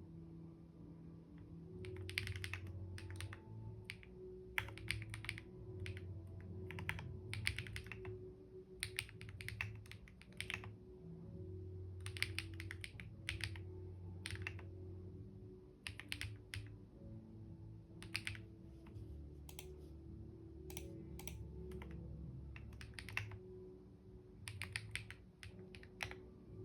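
Typing on a computer keyboard, keystrokes coming in quick bursts with short pauses between them, over soft background music.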